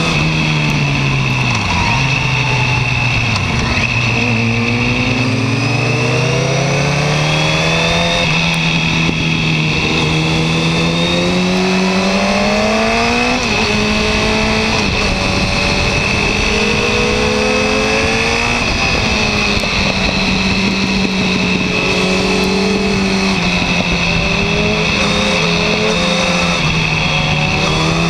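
Yamaha R1's inline-four engine heard from the bike while riding: the engine pitch falls in the first few seconds, then climbs steadily for about ten seconds under acceleration, drops sharply about halfway through, and holds fairly steady with small dips after that. A steady rush of wind and road noise runs underneath.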